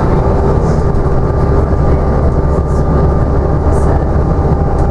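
Scania OmniDekka double-decker bus heard from inside while driving: a steady engine drone with road rumble and a faint constant whine over it.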